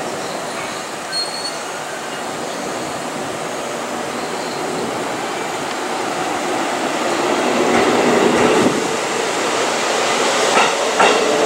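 JR Kyushu 787 series electric train starting to pull out of the station. A steady hum comes from the standing train, then from about seven seconds in a rising motor whine and wheel noise build as it picks up speed, with a couple of clanks near the end.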